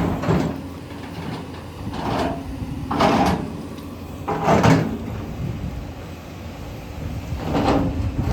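JCB 245 HD LR long-reach excavator working in rock: the engine runs under load while the bucket scrapes and grinds against stone in several harsh bursts a second or more apart.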